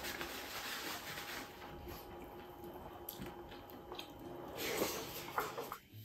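Chewing and wet mouth sounds of a person eating rice and pork by hand, with a few small clicks and smacks.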